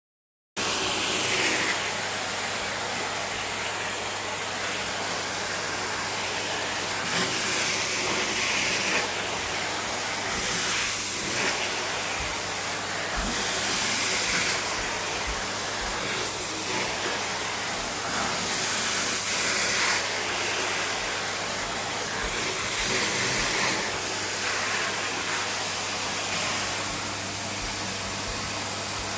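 Vacuum cleaner switched on about half a second in, then running steadily with a low hum under a loud hiss that swells and fades every few seconds.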